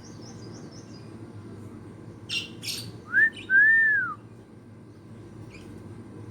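Hill myna giving two short harsh calls, then two clear whistles: a short rising one and a longer one that rises and falls.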